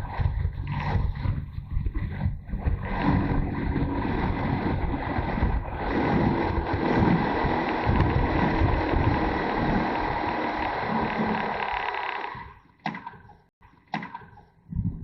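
Wind buffeting a motorcycle-mounted camera's microphone while riding, gusting unevenly, with the motorcycle engine running underneath. Near the end it drops away almost to silence for about two seconds, broken by a few short knocks.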